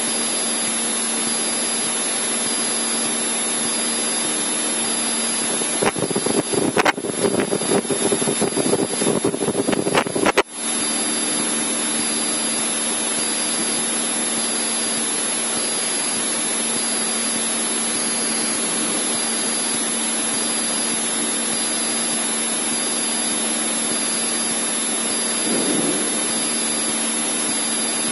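Cessna 152's four-cylinder engine and propeller droning steadily in the cabin, heard through the intercom. From about six seconds in, a louder, choppy rush of noise breaks in for about four seconds and cuts off sharply.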